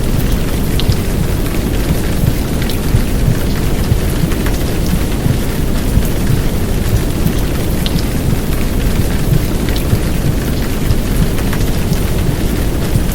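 Steady heavy downpour of rain blended with a low, muffled womb-sound rumble, a dense even hiss heaviest in the low end with faint scattered drop ticks on top.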